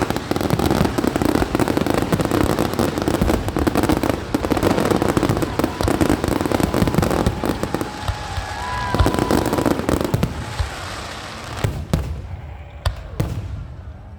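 Aerial fireworks display: a dense barrage of rapid bangs and crackling, with a few whistles about eight seconds in, thinning to scattered single bangs near the end.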